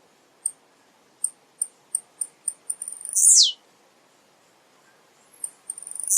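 Male blue-black grassquit (tiziu) singing: a run of short, high ticks that quicken, then a loud buzzy note sliding steeply down in pitch, with the next phrase starting near the end.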